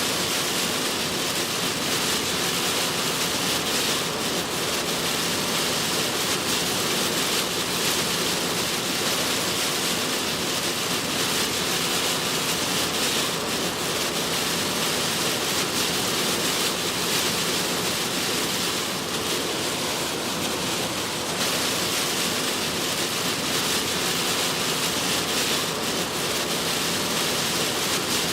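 Heavy rain on a moving car: a steady, even rush of noise that does not let up.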